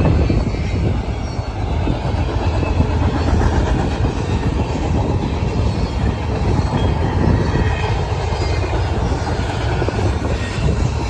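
Train rolling by: a steady, heavy rumble with the rattle of wheels on rail and faint high wheel squeal.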